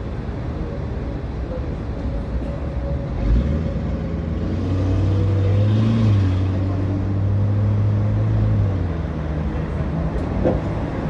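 Tram running along the track with a steady rumble. After a knock about three seconds in, a low hum joins and holds until about nine seconds in.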